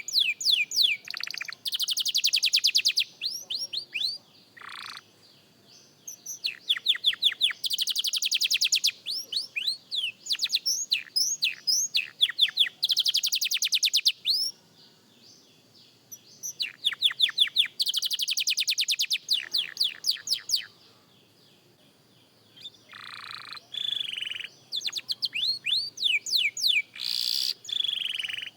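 Young domestic canary practising its song: phrases of quickly repeated downward-sweeping whistles alternate with very fast trills, broken by short pauses of a second or two.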